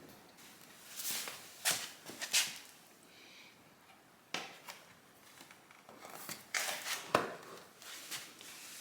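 Handling noises in a small room: rustling with a few sharp clicks and taps, the loudest about two seconds in and again near seven seconds.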